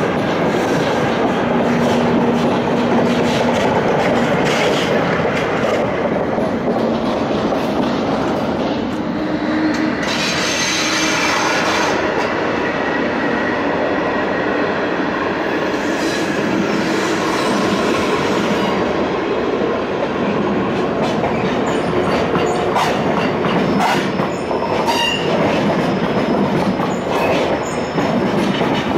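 SBB passenger coaches rolling past on the rails: a steady rumble of wheels on track with clattering over rail joints and points, and brief wheel squeal. Clicks from wheels crossing the joints come thick and fast in the later part, as another train of coaches passes close by near the end.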